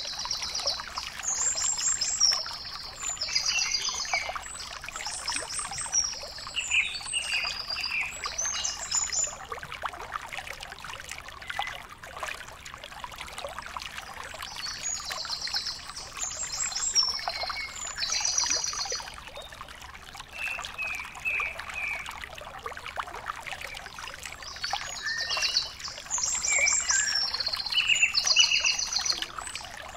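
A songbird singing three bouts of quick, repeated high chirping phrases over a steady rushing noise.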